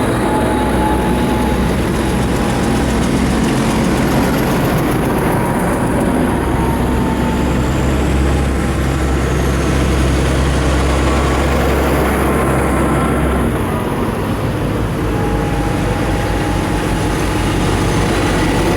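Diesel tractor engines running loudly as tractors drive past in a line, a steady heavy rumble that eases a little about two-thirds of the way through.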